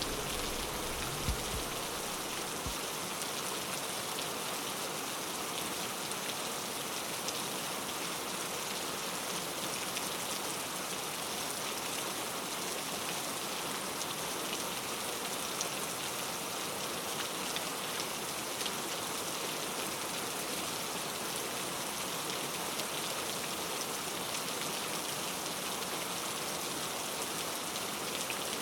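Steady, dense rainfall, an even patter of drops with no letup. A low rumble fades out in the first couple of seconds.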